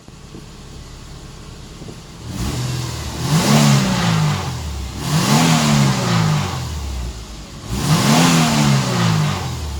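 Subaru Forester flat-four engine idling, then revved three times: each rev rises in pitch and falls back to idle over about two seconds.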